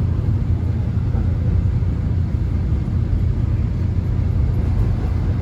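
Subway train running, heard from inside the carriage: a steady low rumble with an even wash of noise above it.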